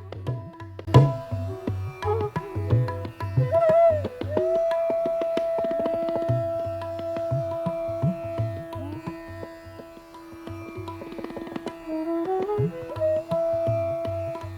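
Background instrumental music in an Indian classical style: a drum beat under a melodic line that holds long notes and slides between them.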